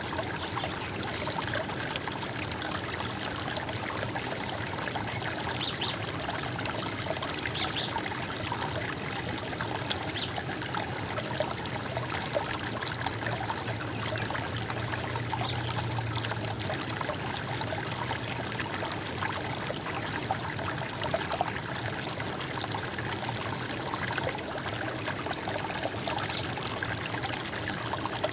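Running water trickling and gurgling steadily.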